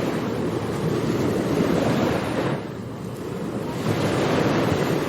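Ocean surf washing onto a beach: a wave rushes in and breaks, dies down a little over halfway through, then the next one builds.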